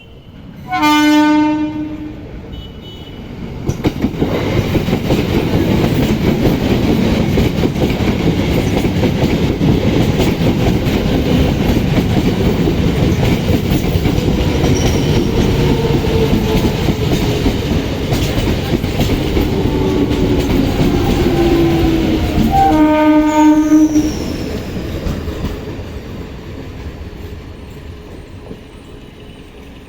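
ICF MEDHA electric multiple unit (EMU) train sounding its horn in a short blast about a second in, then passing close by for about twenty seconds with its wheels clattering over the rails. A second horn blast comes near the end of the pass, and the train noise then fades away.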